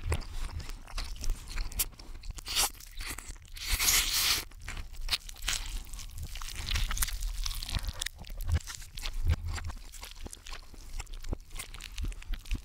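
Eating sounds of a triple cheeseburger played backwards: a dense run of chewing crackles and bite crunches, loudest about four seconds in.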